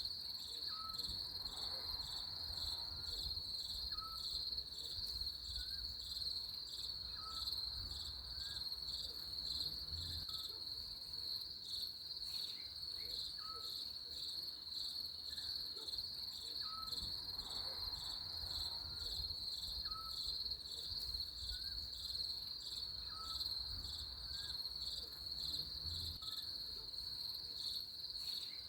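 A steady, high-pitched chorus of trilling insects that never pauses, with a short, faint chirp lower in pitch repeating about every one and a half seconds.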